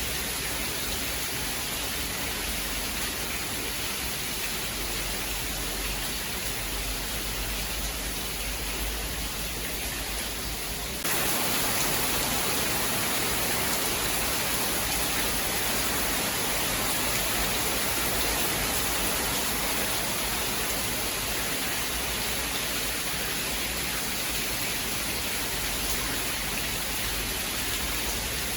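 Steady heavy rain, an even hiss with no thunder, which suddenly grows louder and brighter a little over a third of the way in and then holds steady.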